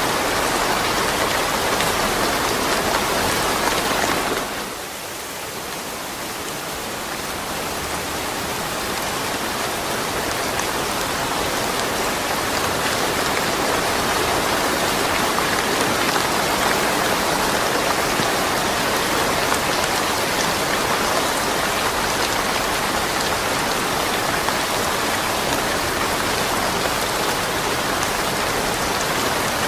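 Steady, heavy rainfall with no thunder, a dense even hiss of drops. About four seconds in it briefly falls quieter, then builds back to full strength over several seconds.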